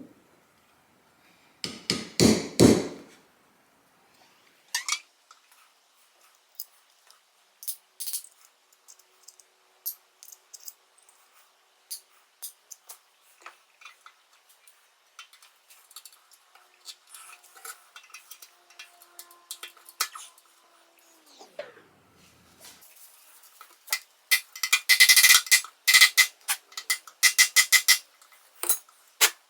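Small metal carburetor parts and hand tools clinking and knocking on a workbench, with a loud clunk about two seconds in and a quick run of rattling clicks near the end.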